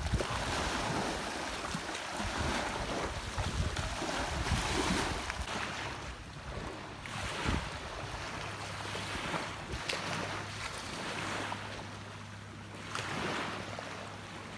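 Sea waves washing onto a beach, swelling and fading every few seconds, with wind buffeting the microphone.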